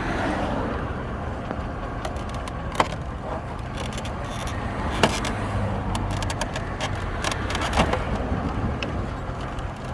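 1996 Mercury Grand Marquis idling, a steady engine hum heard from inside the car. Three short sharp clicks come about three, five and eight seconds in.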